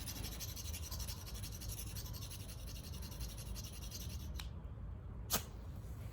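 Ferrocerium fire-starter rod scraped with a striker in rapid short strokes, then struck twice with quick, hard strokes, the second louder.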